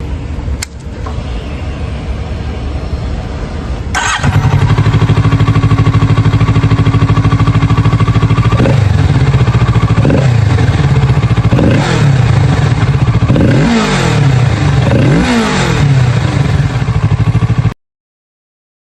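Kawasaki Z650RS parallel-twin engine being started: a click, a few seconds of cranking, then it catches about four seconds in and idles loudly and steadily. From about halfway through, the throttle is blipped five or six times, the engine revving up and dropping back each time, before the sound cuts off abruptly near the end.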